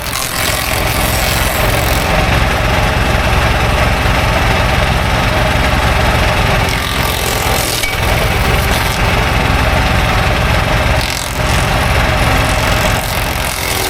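An engine running steadily, with a couple of brief dips in loudness.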